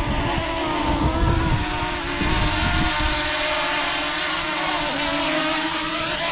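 DJI Mavic Mini drone's propellers running with a steady, slightly wavering buzz as it hovers close by, around take-off. Wind rumbles on the microphone underneath.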